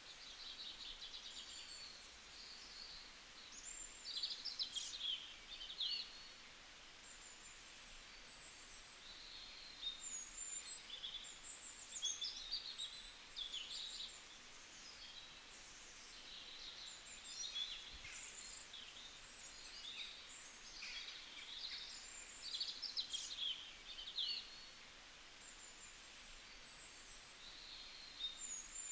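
Several small birds chirping and trilling in a bamboo forest: quick high chirps and short rapid trills that come in clusters and pauses, over a faint steady background hiss.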